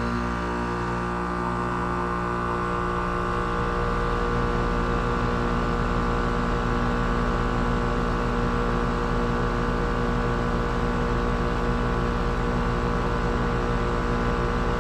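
Bryant Preferred Series 3.5-ton central air conditioner's outdoor unit running steadily: the Copeland scroll compressor humming under the condenser fan, on its first run of the season. The hum holds a steady set of pitches.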